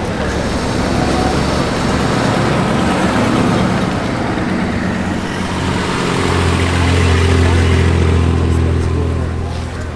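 Car engines running amid road traffic noise, with one vehicle's steady low engine hum swelling loudest in the second half and fading near the end.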